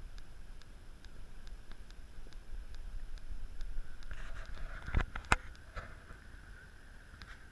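Radio-controlled model boat running on the water: a thin steady motor whine with faint regular ticking, a little under two ticks a second. Two sharp knocks about five seconds in.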